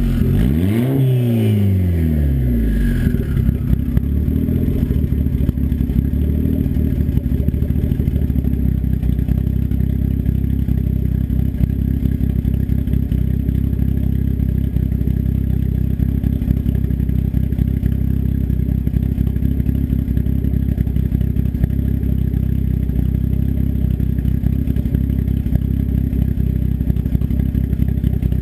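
Turbocharged engine with custom cams, running through an open 3-inch turndown dump off the downpipe. It is revved once at the start, rising and falling back within about three seconds, then settles into a steady, loud idle.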